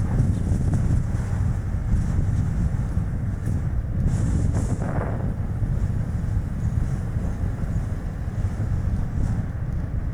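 Strong wind buffeting the microphone over the tyre and road noise of a small car driving along. The low rumble is steady, with a brief higher rushing sound about five seconds in.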